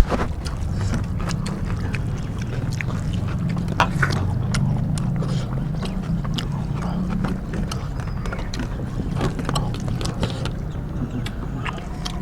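Eating sounds: scattered small clicks and taps of hands and plates as rice and curry are eaten, over a steady low hum.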